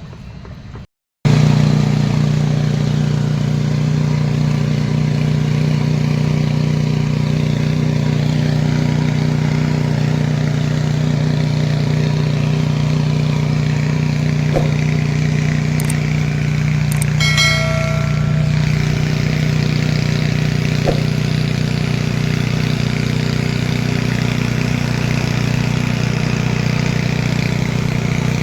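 An engine running steadily at one speed, with a constant low hum. It starts abruptly after a brief moment of silence about a second in.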